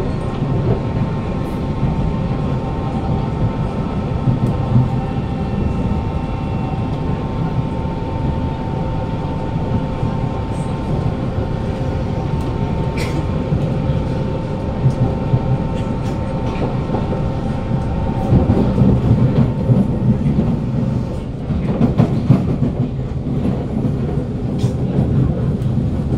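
Kawasaki C151 train running at speed, heard inside its motor car. The GTO-VVVF traction equipment gives a steady hum with held tones over a heavy wheel-and-rail rumble and occasional clicks, and the wheels run without flat-spot pounding. The rumble grows louder and rougher in the last third.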